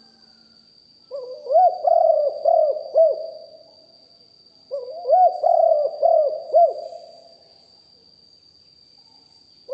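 Spotted dove cooing its song in two phrases, each a run of about four or five deep arched coos lasting about two seconds, with a pause between them.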